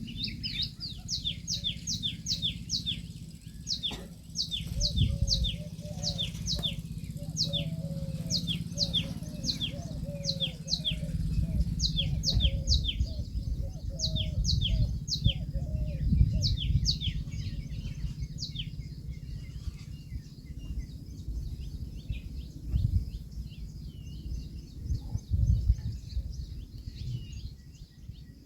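Birds chirping in a fast, steady series of short high notes, each sweeping sharply downward, about two to three a second, thinning out in the last third. A low, uneven rumble runs underneath.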